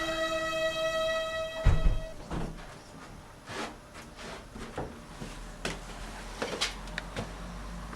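Held electronic music notes that stop about two seconds in, marked by a heavy low thump. After that come scattered knocks and clicks, like a door or cupboard being handled.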